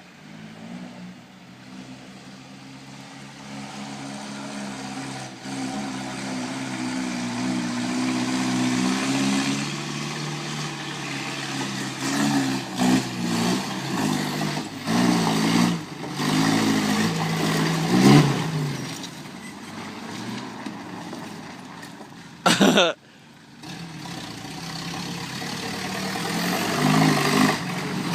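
Off-road 4x4 engine working up a hill, growing louder as it comes closer, then revved in several short rising bursts. A brief, very loud sharp knock about two-thirds of the way through, after which the engine builds again.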